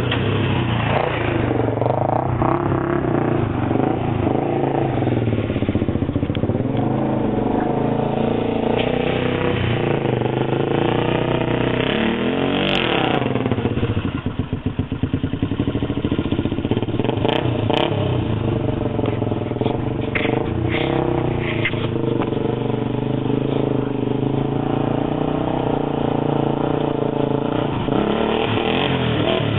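Honda 400EX ATV's single-cylinder four-stroke engine with a modified exhaust, running and revving up and down with rising and falling pitch. About halfway through it drops briefly to low revs before picking up again.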